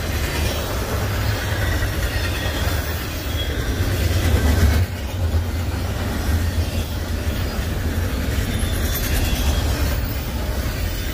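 Double-stack intermodal freight train's container well cars rolling past steadily, steel wheels running on the rails.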